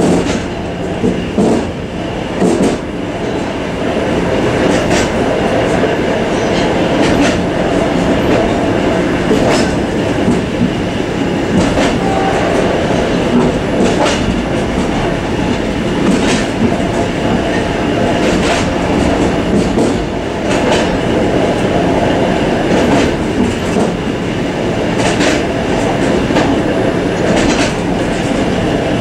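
Suburban train running along jointed track, heard from inside its vestibule: a steady rumble of wheels and car, with a sharp clack about every two seconds as the wheels cross rail joints.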